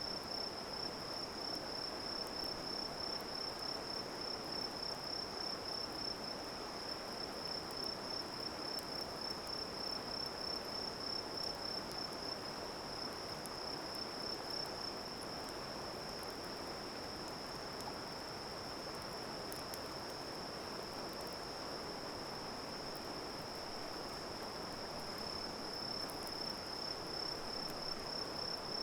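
Insects, crickets by their sound, chirping in a continuous high, single-pitched trill that pulses evenly, over a steady low rush.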